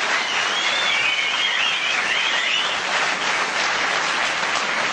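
Audience applauding steadily in a hall, with one high, wavering call from someone in the crowd over the first couple of seconds.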